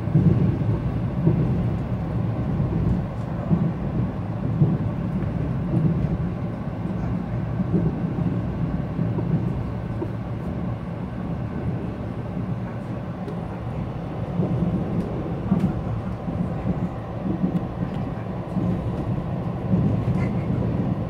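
Passenger train running on the rails: a steady low rumble with occasional faint clicks.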